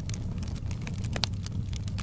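Wood fire burning in a fireplace: a steady low rumble of flames with irregular sharp crackles and pops, one louder pop a little past halfway.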